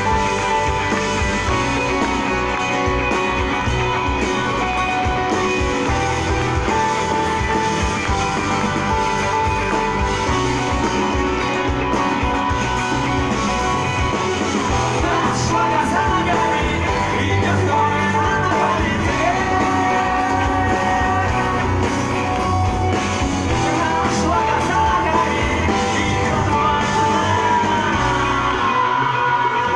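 Rock song with guitar and a singing voice, playing steadily throughout.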